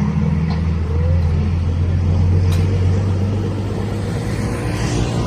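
A motor vehicle's engine running steadily, a loud low even hum that holds its pitch.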